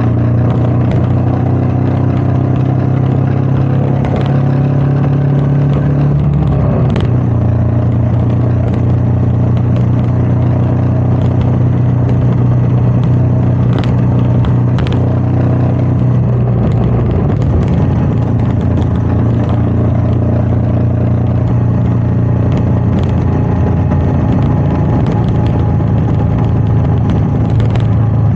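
Royal Enfield Meteor 350's single-cylinder engine running steadily under way, with wind noise on the rider's microphone. The engine note drops about six seconds in, then changes again around sixteen seconds.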